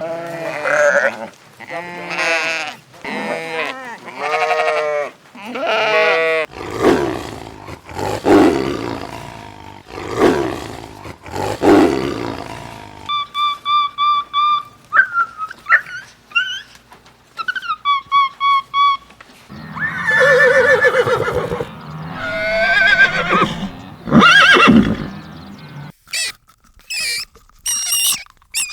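A run of different animal calls, one after another. Pitched calls open the sequence, then deeper calls, then steady whistled notes, more calls, and short sharp squeaks near the end.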